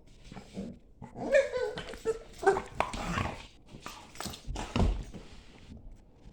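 A German Shepherd and a Staffordshire bull terrier play-fighting, making a run of odd growl-like and whining noises. The noises are loudest from about a second in until shortly before the end.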